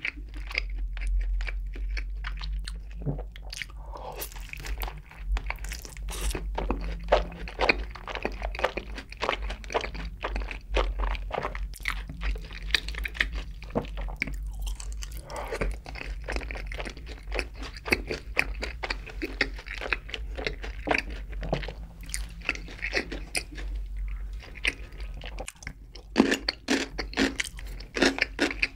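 Close-miked eating: crunching bites and wet chewing of sauce-coated fried chicken, an irregular crackle that goes on continuously.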